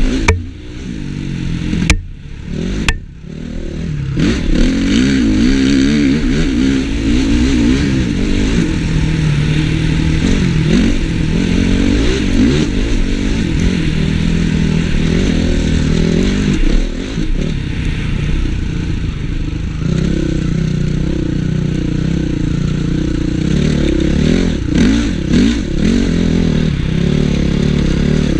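Honda CRF450 motocross bike's single-cylinder four-stroke engine revving and pulling hard off-road, its pitch rising and falling with the throttle. Near the start the throttle drops off briefly, and two sharp knocks sound about two and three seconds in.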